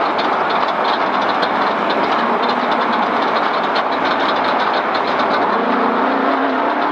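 Vehicle driving fast over rough, rocky ground: steady engine and tyre noise with constant rapid rattling and clatter, and a steadier engine note coming through near the end.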